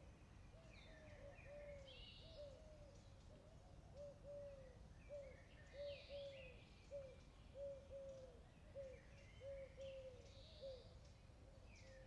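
Faint birds calling: a short note repeated about once or twice a second, with bunches of higher chirps every few seconds, over a low steady background rumble.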